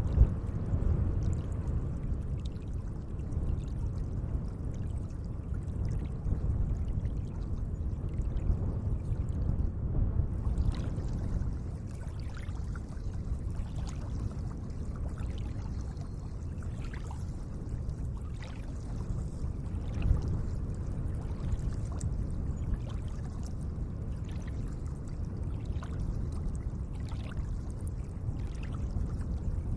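Lake water lapping and trickling gently, a steady low wash with small splashing ticks from about ten seconds in.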